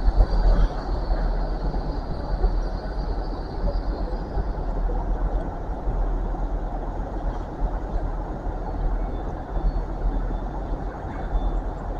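A train running through the station: a steady low rumble, with a high wheel squeal that fades out over the first few seconds.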